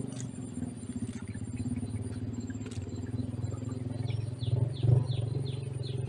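A steady low engine-like drone with an even pulse. About four seconds in, a small bird gives a quick series of about seven short, high chirps, each sliding down in pitch.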